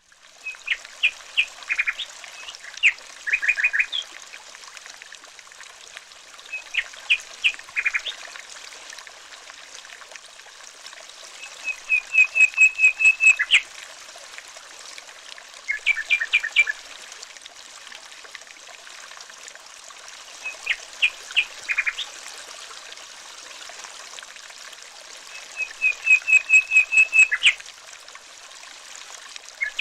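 Birds chirping in short, repeated phrases every few seconds, some as quick runs of about eight notes, over a steady trickle of running water.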